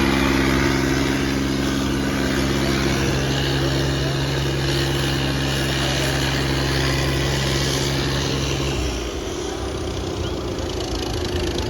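Tractor diesel engine running at a steady pitch, which drops away about nine seconds in, leaving a rougher, slightly quieter engine noise.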